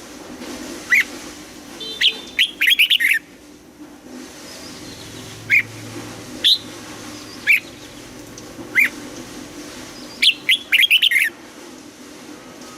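Red-whiskered bulbul singing: short, clear whistled notes spaced about a second apart, broken twice by quick runs of chattering notes, about two seconds in and again near ten seconds.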